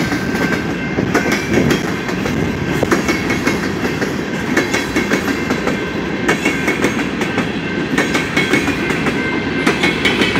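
Freight train of covered hopper cars rolling past close by: a steady rumble with the wheels clacking irregularly over the rail joints.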